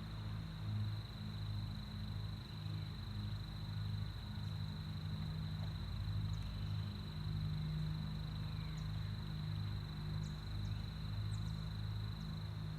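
Steady, high-pitched drone of cicadas, over a low, pulsing hum.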